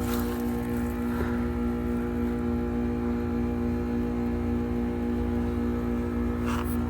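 Heat pump outdoor unit in its defrost cycle: the compressor runs with a steady hum of several tones over a low rumble while the outdoor fan is stopped.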